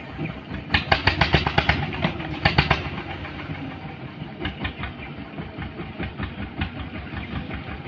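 A heavy engine running steadily, with two bursts of rapid clattering, about ten strokes a second: one about a second in and a shorter one near three seconds.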